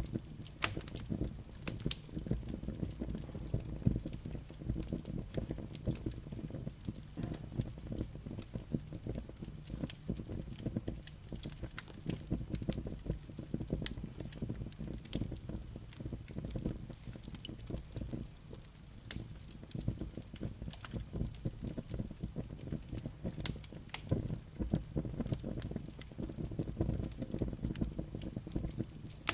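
Wood fire burning in a fireplace: a steady low rumble of flames with frequent sharp crackles and pops from the burning logs and embers.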